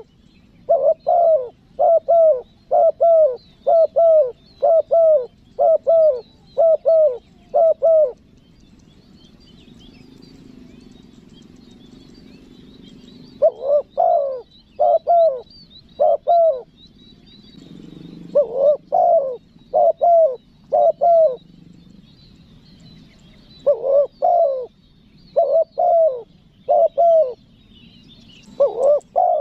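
Spotted dove (tekukur) cooing in runs of short, evenly spaced coo notes, a long run of about ten at the start, then shorter runs of four to six after pauses of a few seconds. Faint high chirping of small birds sits behind it.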